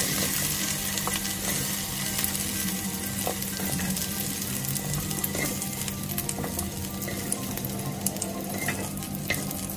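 Potato and carrot chunks sizzling in hot olive oil in a ceramic pan. A silicone spatula scrapes and taps against the pan as they are scooped out.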